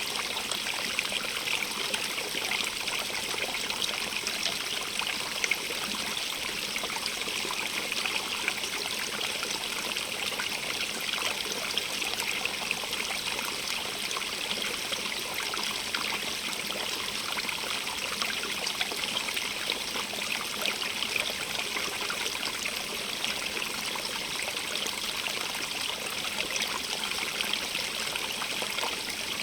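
A stream running steadily, its water trickling and splashing, with a fine bright splatter and no change in flow.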